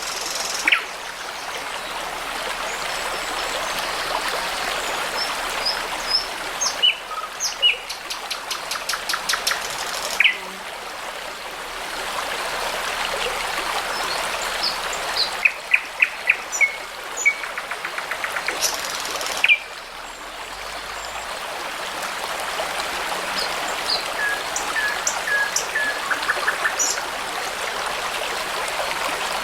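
Brook babbling steadily while songbirds sing over it in short whistled notes and rapid trills. The water sound changes abruptly twice.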